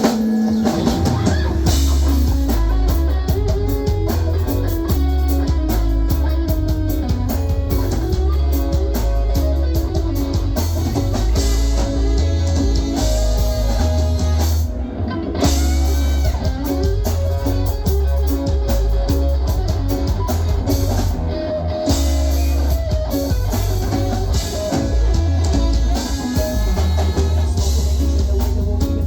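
Live rock band playing the instrumental intro of a song: electric guitar with drum kit and bass, loud and steady throughout.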